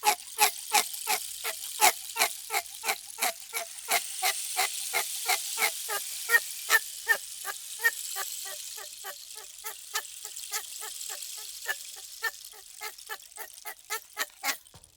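A bird calling over and over in quick, even succession, about three short calls a second, over a fainter high hiss; the calls stop just before the end.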